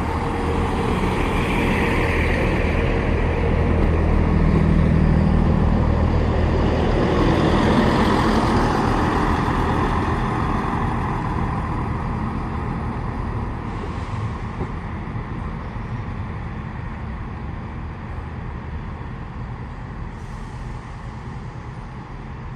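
Two coupled Class 158 diesel multiple units moving slowly along the platform, their underfloor diesel engines giving a steady low hum over a rumble. The sound swells over the first several seconds and then slowly fades.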